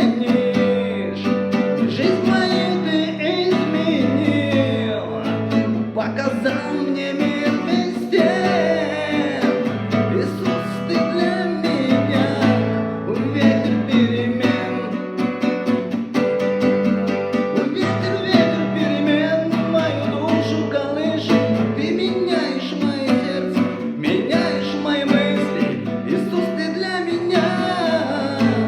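Acoustic guitar strummed and plucked steadily, accompanying a voice singing a Christian worship song.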